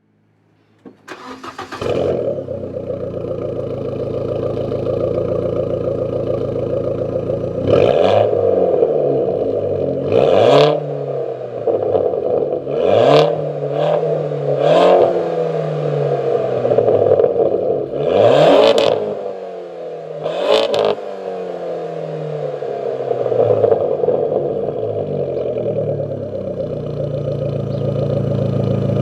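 Fiat Abarth 500's 1.4 turbo four-cylinder, breathing through an Ascari stainless steel sports exhaust, starts about a second in and settles to a steady idle. It is then revved in about six quick blips, each rising sharply and dropping back to idle.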